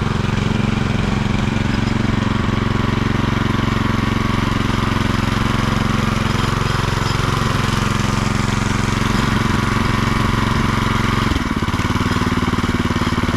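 An engine running steadily at a constant speed, its note dropping slightly and settling about eleven and a half seconds in.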